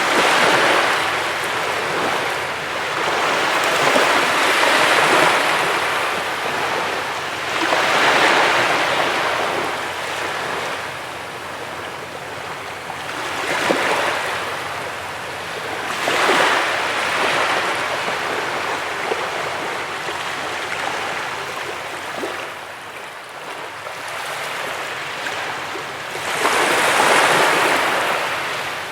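Sea waves breaking and washing up a beach: surges of surf swell and fade every few seconds.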